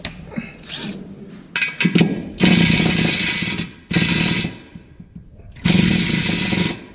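Impact wrench hammering on the transmission mount bolts in three bursts, the first two about a second in length and a shorter one, the last running over a second, with a few light metal clinks of the socket going on before. The bolts are tight and don't break loose.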